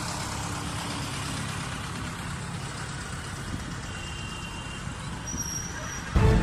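A motor vehicle's engine running steadily with a low rumble, with faint street ambience. About six seconds in, loud dramatic music starts.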